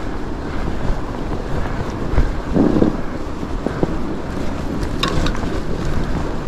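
Wind buffeting the microphone over the steady rolling noise of fat bike tyres on fresh snow, with a few brief knocks.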